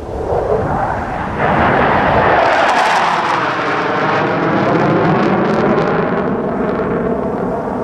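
Jet engine roar of a fighter jet passing overhead, growing loud about a second and a half in and staying loud, with a sweeping, phasing rush as it goes by.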